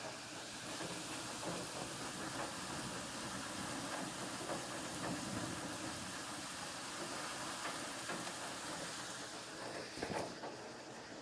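Steady hiss of heavy rain falling, with a brief louder burst near the end.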